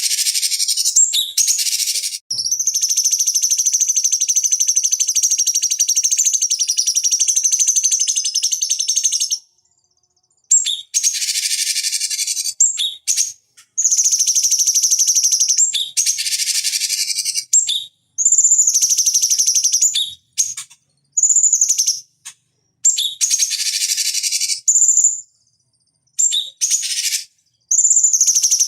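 Cucak cungkok singing: high, rapid chattering song, one long unbroken phrase for the first nine seconds or so, then a string of shorter phrases with abrupt silent gaps between them.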